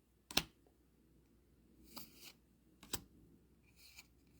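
Trading cards being handled and flicked through by hand: a sharp snap about half a second in, a short brushing slide at about two seconds, and another sharp click at about three seconds.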